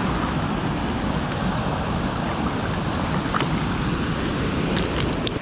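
Steady rush of creek water close by, flowing at a small dam.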